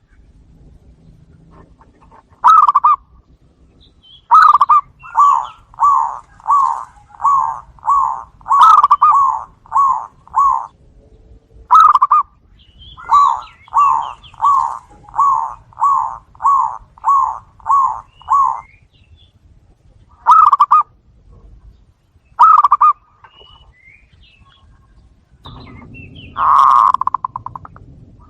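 Zebra doves (perkutut) cooing: two long runs of short, rapid coo notes at nearly two a second, with single coos in between and a longer drawn-out coo near the end.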